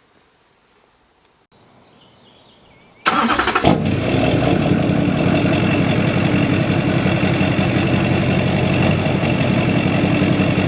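Duramax LLY 6.6-litre V8 turbo-diesel through a 5-inch exhaust, starting about three seconds in and then idling loudly and steadily.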